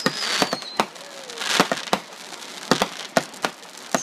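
Fireworks going off in quick succession: a string of sharp bangs, a falling whistle in the first second, and a burst of crackling about a second and a half in.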